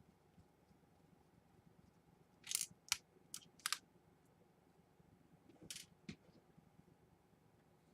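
Small sharp clicks and taps of laptop parts being handled and fitted: a quick run of four about two and a half seconds in, then two more about two seconds later.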